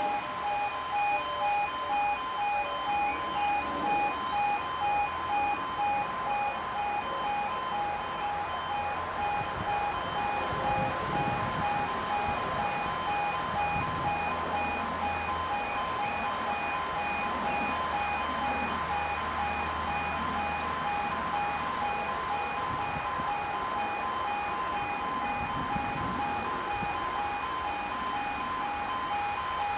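Level crossing warning alarm sounding continuously: two high tones pulsing on and off rapidly. A low hum runs underneath for much of the middle.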